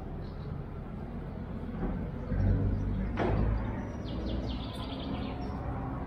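Outdoor ambience with a low steady rumble; a sharp click just past three seconds in, then a bird's rapid chirping trill lasting about a second.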